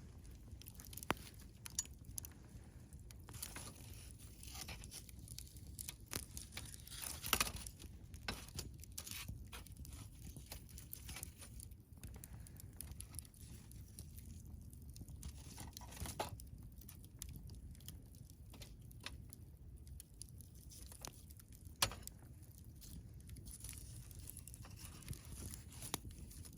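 Campfire burning with faint, irregular crackling of wood and a few sharp louder pops, the loudest about seven seconds in and again near twenty-two seconds.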